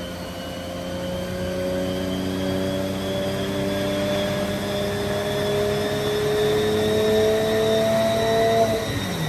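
Porsche GT4 Clubsport's flat-six engine pulling under load on a chassis dyno, its note climbing slowly and steadily in pitch, with a brief drop near the end as it shifts up a gear.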